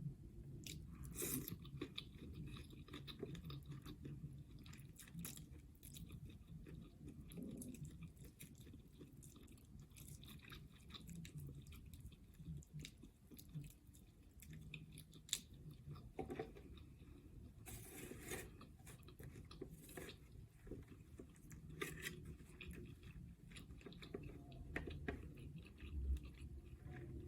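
A person chewing and biting Alaskan crab legs and shrimp in butter sauce, close to the microphone, with many short wet clicks of the mouth.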